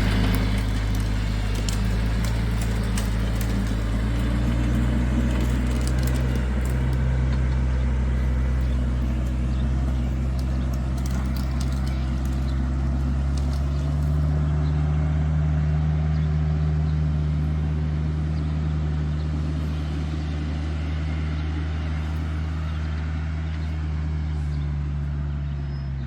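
A vehicle engine runs steadily at a low, even speed, shifting up slightly in pitch about halfway through, with a few light clicks early on.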